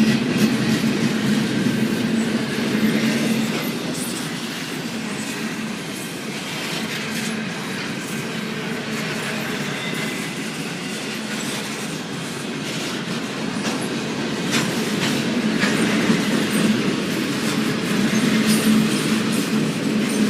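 Cars of a long intermodal freight train rolling past: a steady wheel-on-rail rumble with many sharp clicks as wheels cross rail joints. It grows quieter through the middle and louder again near the end.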